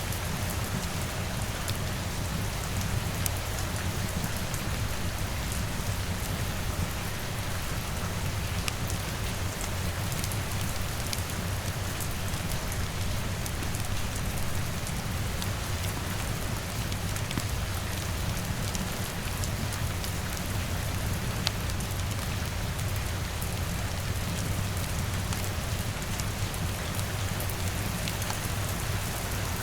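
Steady rain pattering, with a low rumble beneath and scattered sharp ticks throughout.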